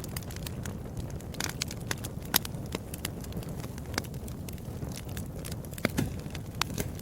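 Fire in a fireplace crackling, with irregular sharp pops over a low steady rumble; the loudest pop comes a little over two seconds in.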